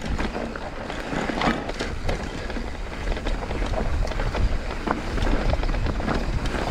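Mountain bike riding down a dry dirt trail: wind buffeting the microphone as a steady low rumble, with tyres rolling over loose dirt and scattered clicks and rattles from the bike.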